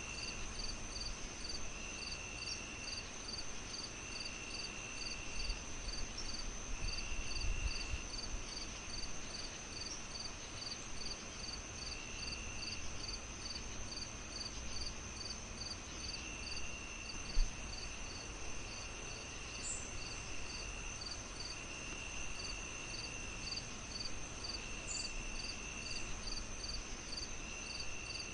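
Crickets chirping in a layered chorus: a steady high drone, evenly spaced chirps, and trills of about a second that come and go. Underneath is a low fire crackle, with one louder pop about 17 seconds in.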